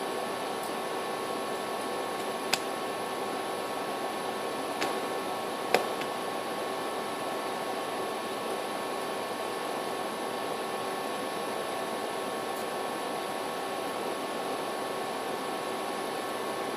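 Steady hiss with a faint hum, broken by three brief clicks in the first six seconds.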